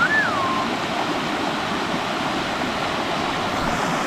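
Steady rush of water from the Macui River and its waterfall, an even hiss with no breaks. Right at the start there is one short whistled note that rises and then falls.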